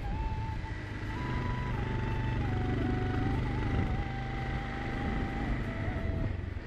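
A scooter engine running with wind rumble while riding, under background music whose melody moves in held notes.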